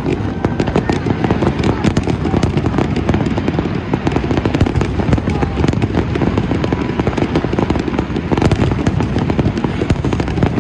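Aerial fireworks going off in a dense, unbroken barrage: many shells and comets bursting and crackling in quick succession, with no pause.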